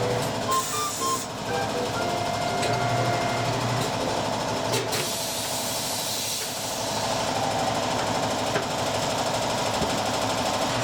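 Tyre-changing equipment running with a steady, rapid mechanical rattle, with a few notes of background music in the first second or so.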